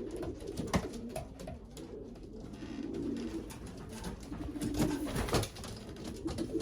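Racing pigeons cooing in a loft: low, repeated throaty calls, with a few sharp knocks about a second in and around five seconds in.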